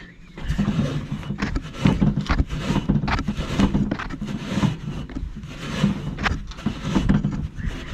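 Irregular rubbing and scraping strokes, starting about half a second in: a rag being wiped over the metal expansion chamber.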